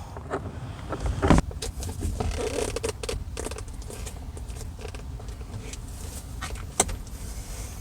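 Hands fitting a small part into a car's door internals: scattered small clicks and plastic creaks, with a sharper click about a second and a half in and another near the end.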